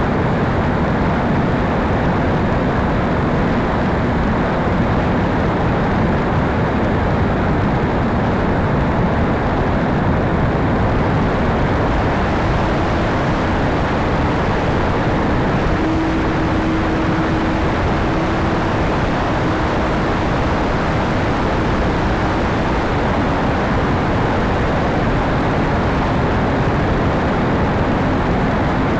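Steady rushing air noise from an E-flite Conscendo RC glider in flight, even in level throughout, with a faint steady hum through the middle stretch.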